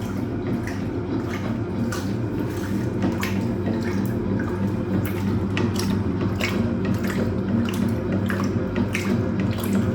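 Hoover Automatic 820 washing machine agitating a full load during its rinse: a steady motor hum with water sloshing and splashing in the drum.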